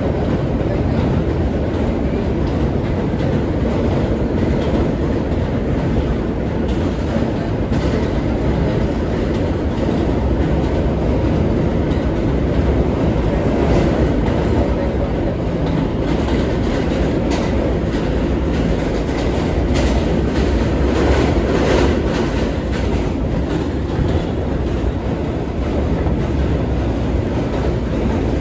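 An R143 New York City subway train running at speed, heard from inside the car: a steady heavy rumble with the clickety-clack of the wheels over rail joints, clicking more often through the middle of the run.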